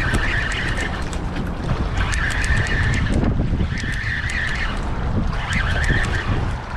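Strong wind rumbling over the microphone, with a higher whirring sound coming in four short spells.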